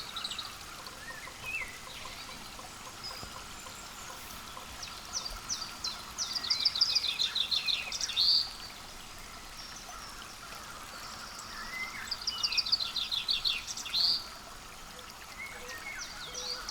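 A songbird singing two rapid, trilled song phrases, each about two and a half seconds long and ending in a stronger note, with short chip calls in between, over a steady outdoor hiss.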